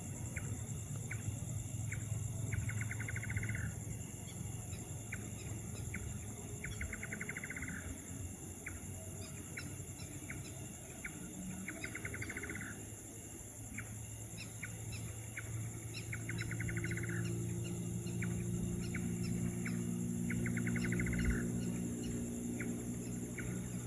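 Night chorus of insects and calling animals: steady high-pitched insect buzzing, a rapid pulsed trill about a second long that repeats every four seconds or so, and scattered short chirps. A low hum grows louder about two-thirds of the way through.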